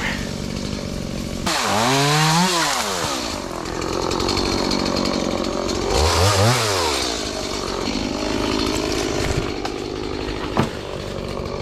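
Two-stroke chainsaw running and revved up twice, each time rising in pitch for about a second and falling back to a lower run, with a sharp click near the end.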